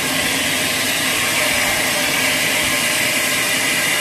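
Sawmill machinery running with a steady, even noise and a few faint steady tones.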